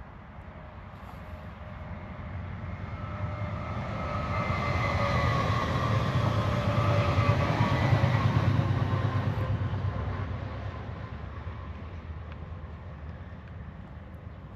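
Electric train passing by: a rumble and a whine of several tones swell to a peak about halfway through, then fade away.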